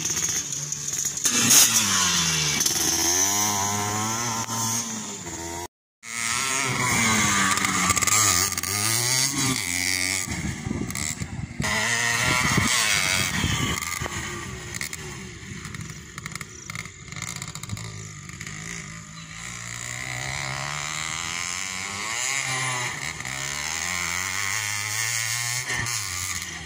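Several motocross bikes racing, their engines revving up and falling off again over and over as they power through the track, overlapping one another. The sound cuts out completely for a moment about six seconds in.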